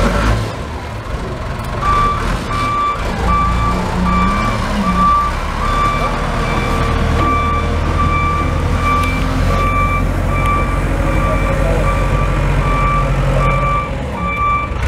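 Reversing alarm of a work vehicle beeping steadily, close to two beeps a second, starting about two seconds in, over the engine running underneath: the vehicle is backing up.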